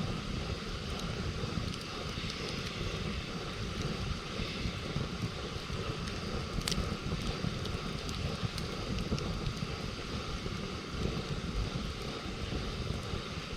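Wood campfire burning with sparse small crackles and one sharper pop about halfway through, over a steady low rumble.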